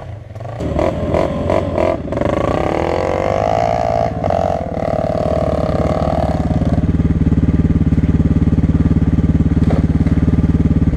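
Single-cylinder four-stroke dirt bike engine running on a trail ride. The revs rise over the first couple of seconds, then settle into a steady pulsing run.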